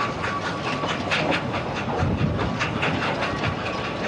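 Ffestiniog Railway narrow-gauge train carriages running over the rails, heard from a carriage window: a steady rumble with a few clicks each second as the wheels go over the rail joints.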